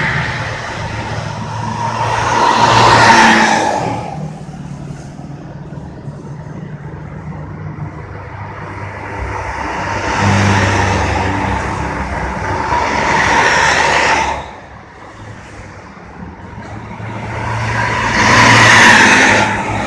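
Road vehicles running hard up a climb over a steady low engine drone, with three loud passes close by: about three seconds in, a longer one from about ten to fourteen seconds, and one near the end.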